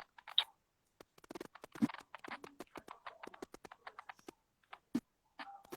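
Scattered faint clicks and taps at an irregular pace, with a few soft short murmurs between them.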